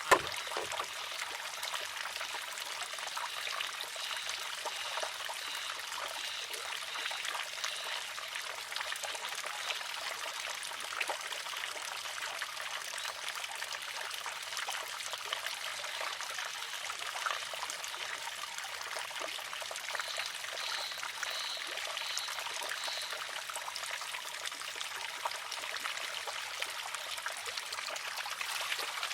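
Wooden water-driven shishi-odoshi arm tipping and striking its rock with one sharp clack right at the start. Steady trickling water follows as the arm refills.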